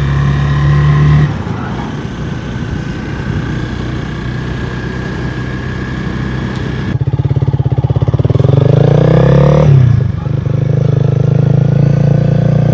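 Honda Rebel 250's single-cylinder engine running through a generic slip-on muffler with the catalytic converter removed. It idles steadily, is revved once with a rising pitch about eight seconds in, drops back about a second and a half later, then settles to idle again.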